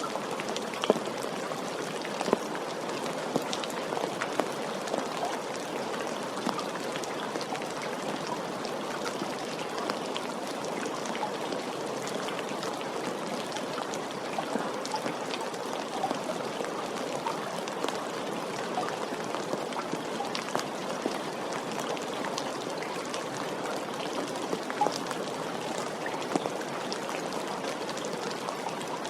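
Steady gentle rain: an even hiss of falling water with many separate drops clicking sharply.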